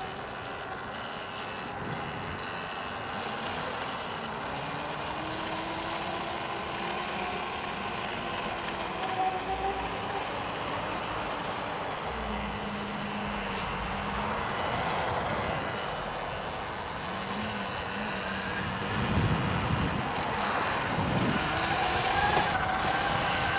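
Electric dirt bikes riding on a dirt trail: wind and tyre noise, with a faint electric-motor whine rising and falling in pitch, and a few low thumps near the end.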